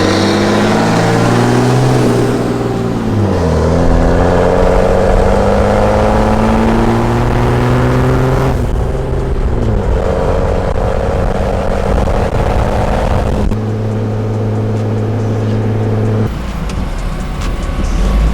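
Car engine pulling through the gears. The pitch climbs slowly and drops at each upshift, twice, then holds steadier at cruise.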